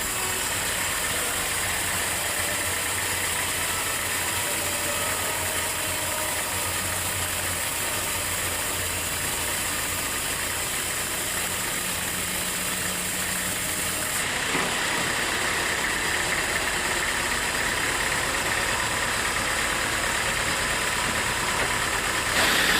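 Sawmill machinery running steadily: a dense, engine-like drone that shifts in tone about two-thirds of the way through and gets louder just before the end.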